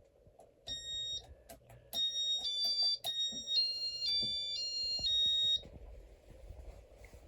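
Electronic beep tones from a Casablanca ceiling fan's control as it is put into demo mode: one short beep about a second in, then a little tune of stepped beeps from about two seconds until about five and a half seconds in. A few clicks and a steady low hum lie underneath.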